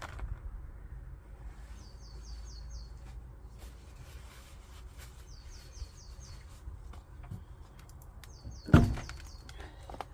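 A bird calling three times, each a quick run of four or five high chirps, over scattered light knocks of work. There is one loud thunk near the end, the loudest sound.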